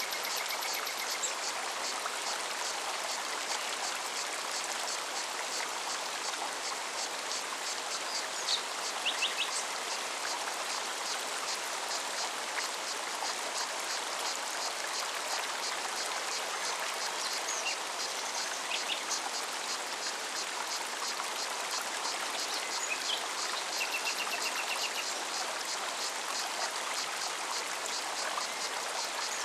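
Mountain forest stream flowing steadily, with a fast, even high-pitched ticking throughout and a few short bird chirps.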